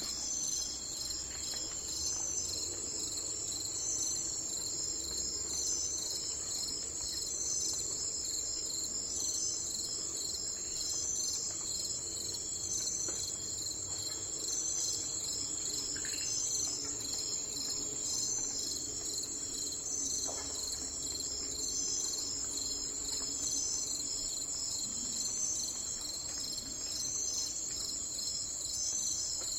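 Steady chorus of insects, cricket-like, trilling in rapid even pulses.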